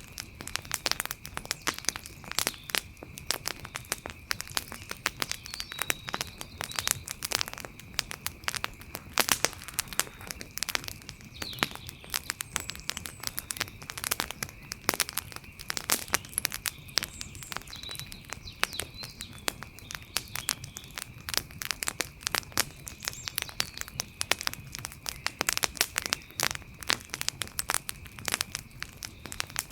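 Wood fire crackling, a dense, irregular run of sharp pops and snaps, with a steady faint high tone underneath.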